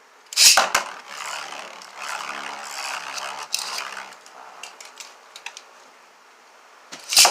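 Beyblade spinning tops launched into a stadium with a loud rip about half a second in, then spinning, scraping and rattling against the stadium and each other with scattered clicks of contact, and a loud clash just before the end.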